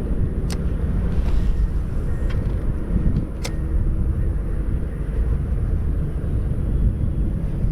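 Strong wind buffeting the microphone, a steady low rumble, with a couple of sharp clicks.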